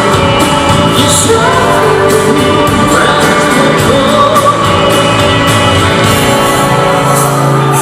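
Rock band playing a song live, with a male lead vocal over the band and a steady drum beat.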